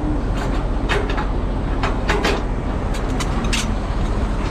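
A truck's diesel engine idles steadily under a series of irregular metallic clicks and clanks as an intermodal chassis's landing gear is cranked up. It goes easily, the sign of a chassis in good working order.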